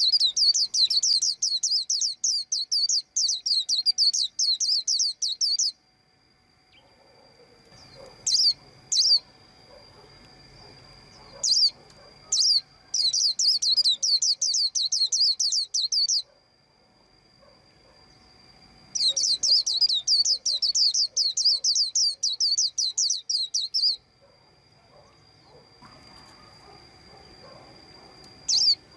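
White-eye chirping: bursts of rapid, high twittering notes lasting several seconds each, with a few single notes in the pauses between. A thin steady high tone runs underneath.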